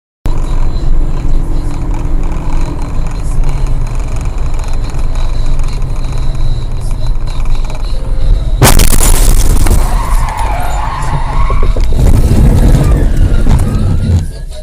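Car and road noise with a heavy low rumble, then a sudden loud crash about eight and a half seconds in, followed by loud noisy commotion that fades near the end.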